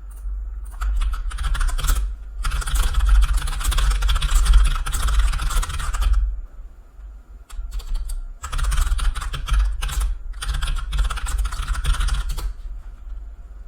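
Rapid typing on a computer keyboard in four quick bursts, with short pauses about two seconds in, around six to eight seconds in, and near ten seconds in.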